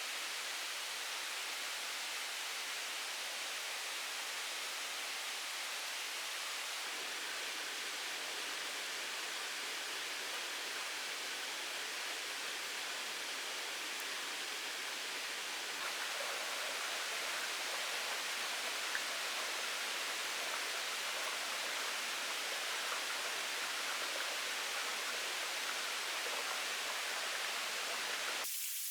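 Steady rushing hiss of water, like rain or running water in the forest, that changes abruptly just before the end.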